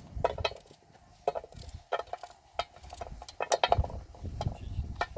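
Irregular clicks and knocks of hard objects, several close together in the middle, over a low rumble.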